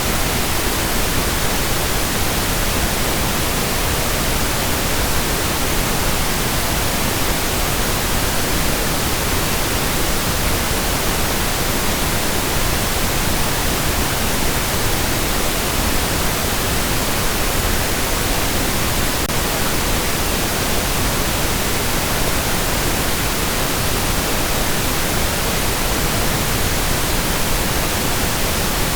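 Steady pink noise: an even, unchanging hiss spread across all pitches, with no rhythm or breaks.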